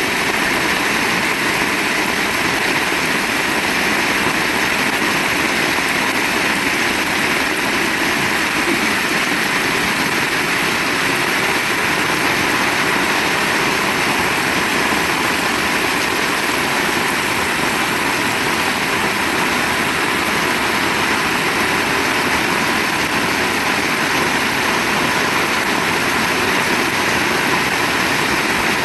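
Heavy rain pouring steadily, a loud constant hiss with no break or thunderclap.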